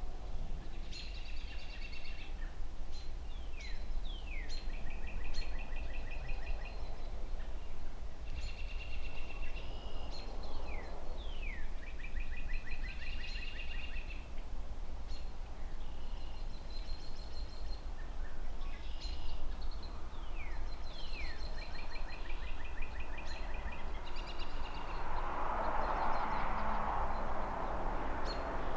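A songbird singing the same short phrase over and over, a few quick falling notes and then a buzzy trill, about every four to five seconds, over a steady low rumble of distant city traffic. A swell of rushing noise rises near the end.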